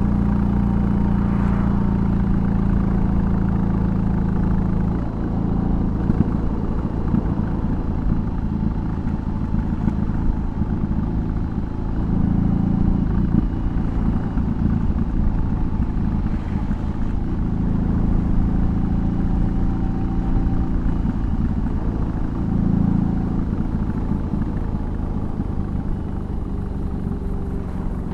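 BMW R18's 1,802 cc boxer twin running through a custom exhaust while riding. It holds a steady note for the first few seconds, then the note rises and falls, with several louder swells as the throttle opens.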